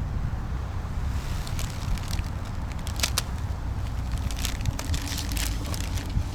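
Packaging being handled and opened: scattered crackles and crunches of cardboard and plastic wrap, over a steady low rumble.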